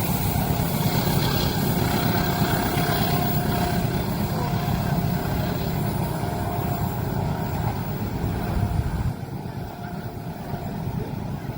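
Train passing close by with a loud, steady rumble and rail noise that drops away suddenly about nine seconds in as the train clears.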